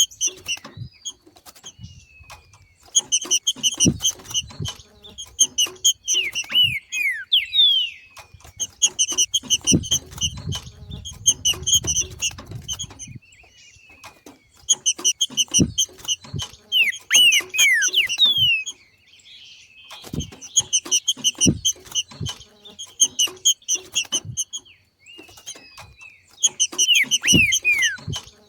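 Green-winged saltator (trinca-ferro) giving its macheado, the chattering call of a bird in breeding condition: bouts of rapid repeated sharp notes a few seconds long with short pauses between, a few quick falling whistles mixed in, and scattered low knocks.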